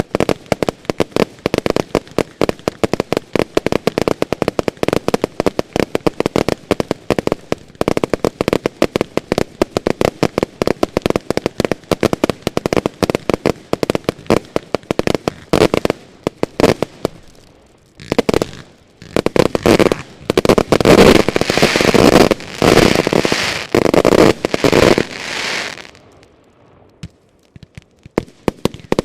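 Consumer (category F2) fireworks firing in rapid succession: a steady stream of sharp reports, several a second. After a brief lull about two-thirds of the way through comes a louder, denser barrage of crackling bursts, which cuts off suddenly; scattered shots start again near the end.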